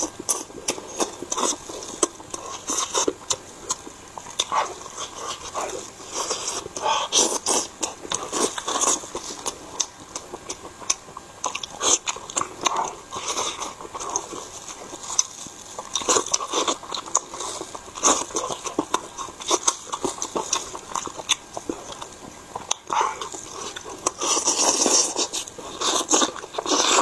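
Close-miked chewing and biting of tender chicken meat: many sharp mouth clicks and smacks at an uneven pace, thicker near the end.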